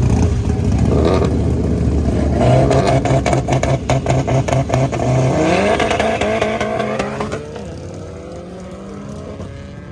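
Car engine revving loudly and pulsing, then from about seven seconds in fading as it accelerates away, its pitch climbing through the gears.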